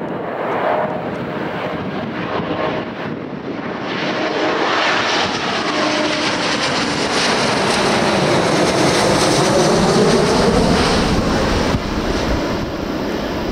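Jet airliner passing close by, its engine noise building to a peak about ten seconds in. A sweeping change in tone runs through the noise as it goes past.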